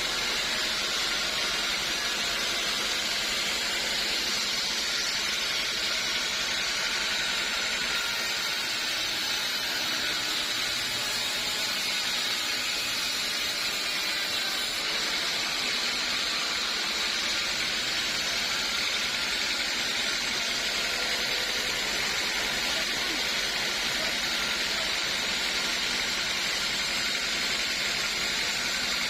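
Steady, even hissing noise that holds one level throughout, with no knocks or changes.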